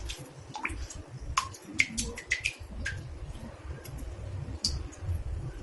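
Water drops falling into a bathtub: about a dozen irregular plinks, many with a quick rising pitch, over a low rumble.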